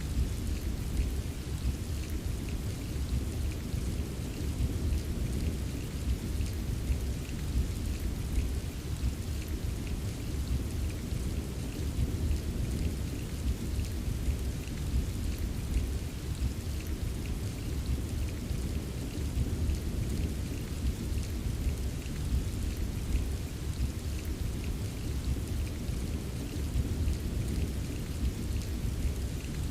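Steady rain pattering, over a continuous low rumble of distant rolling thunder.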